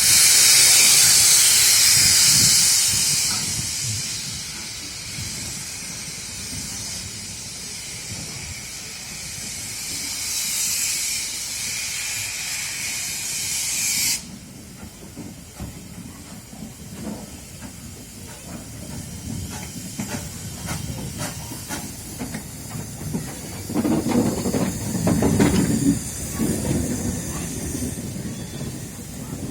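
Steam locomotive No. 85 hissing steam loudly, easing off and swelling again before cutting off suddenly about halfway through. After that, quieter low rumbling with scattered clicks, rising to a louder rumble for a couple of seconds near the end.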